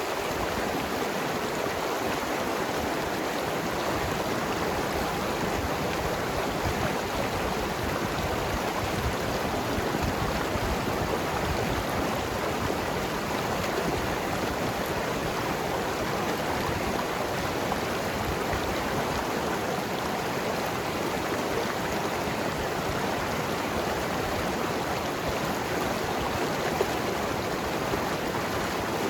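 Mountain river flowing steadily over rocks, an even rushing with gurgling.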